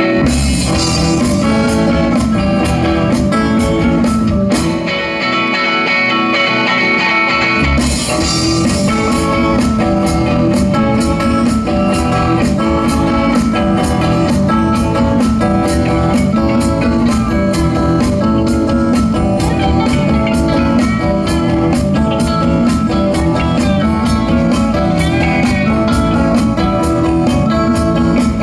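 Live rock band playing an instrumental passage led by electric guitar; the bass and drums come in fully about eight seconds in and carry a steady beat.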